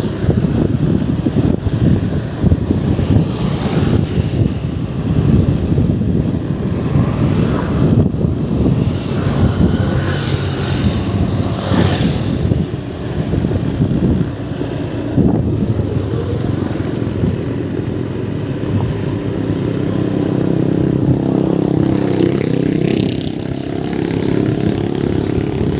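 A vehicle engine running steadily, its pitch shifting near the end.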